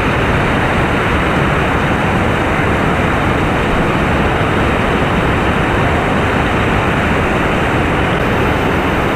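Loud, steady rush of whitewater on a river rapid.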